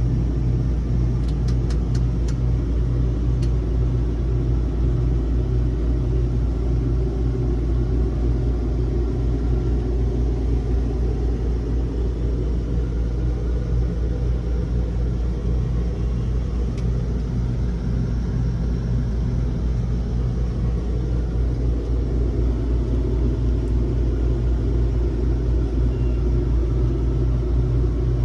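Steady low rumble and hum of an engine running at idle, unchanging throughout, with a few faint clicks about two seconds in.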